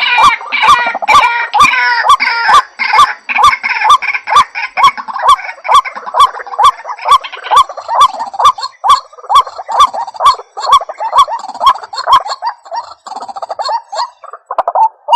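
White-breasted waterhen (ruak-ruak) calling: a loud, rhythmic series of repeated call notes, about three a second. Higher chattering calls overlap them through the first half and fade out, and the calling breaks off abruptly at the very end.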